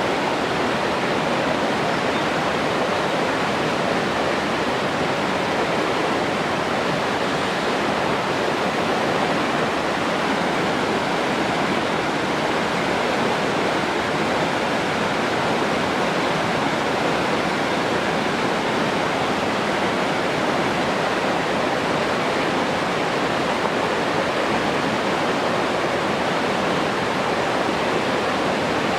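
Steady rushing water, like a waterfall or stream, unbroken and even in level.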